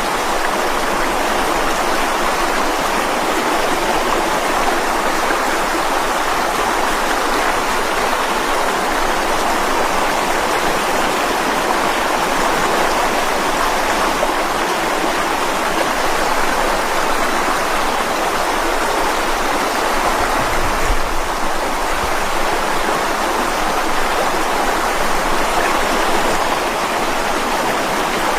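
Mountain stream flowing and splashing over rocks: a steady, dense rush of water.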